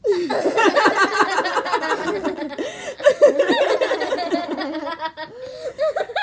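Children laughing loudly and continuously, with quick, breaking bursts of voice.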